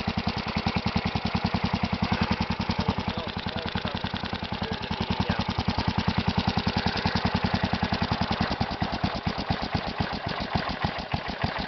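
Kohler Magnum 16 hp single-cylinder engine (K361 block) running steadily, with even, rapid exhaust pulses, showing little blow-by.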